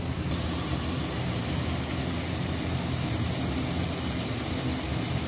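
Ground onion, ginger and garlic paste frying in oil in a pot: a steady sizzling hiss over a low, steady hum.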